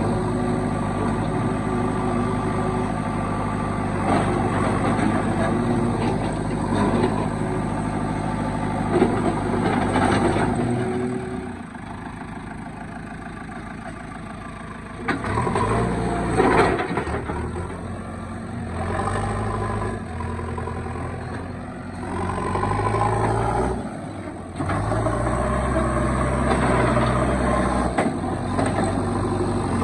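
Diesel engine of a JCB 3DX backhoe loader running under load. It drops quieter for a few seconds near the middle, then revs up and falls back in several surges as the machine works.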